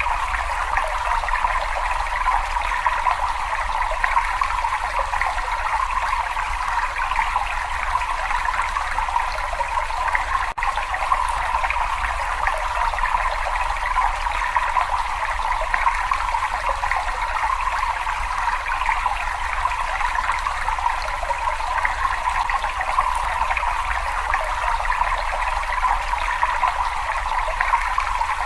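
Water running steadily in a cave, a continuous rushing trickle with an even tone, briefly cutting out for an instant about ten seconds in.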